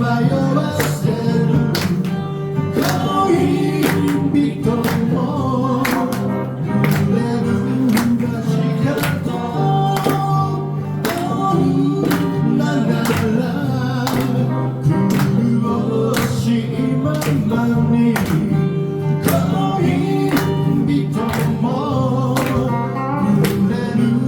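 A band playing live: guitar over a steady beat of drum strikes about once a second.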